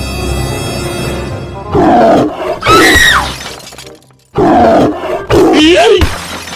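Scary background music, then four loud animal roar sound effects in quick succession, the first starting about two seconds in, each rising and falling in pitch.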